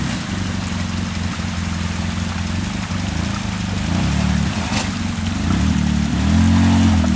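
Polaris RZR 800 side-by-side engine running at low revs while crawling over rocks. The throttle comes up briefly about four seconds in, then again more strongly near the end.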